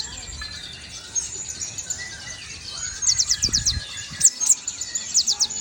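Konin songbird singing its rapid-fire 'tembakan' phrases: quick runs of sharp, high down-slurred notes, about ten a second, in short bursts about three seconds in and again near the end, with softer chirps between. A brief low thud comes during the first burst.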